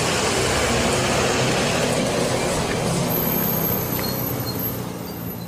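School bus engine running under load as the bus pulls away and turns. The sound fades in the last couple of seconds as the bus drives off.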